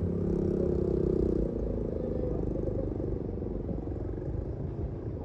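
Heavy truck's diesel engine labouring under load, a steady low drone that grows fainter after about a second and a half.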